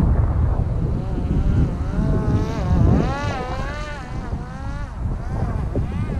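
Wind buffeting the microphone with low, gusty rumbling. From about two to five seconds in, a wavering pitched whine rises above it and then fades.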